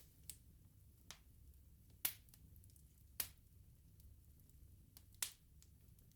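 Wood bonfire crackling: five sharp, irregular pops from the burning logs, the loudest about two seconds in, over a low, steady rumble of the flames.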